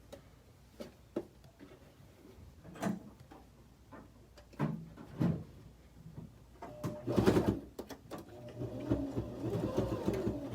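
Domestic sewing machine stitching a short reinforcing seam at a clipped corner, running loudest in the last couple of seconds, with fabric handling before it.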